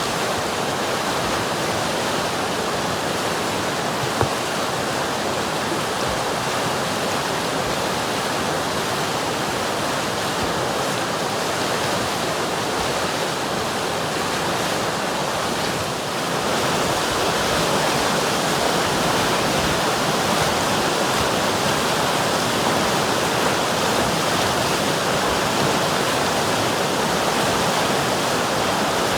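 River water rushing and splashing steadily, a continuous churning noise; it turns slightly louder about halfway through.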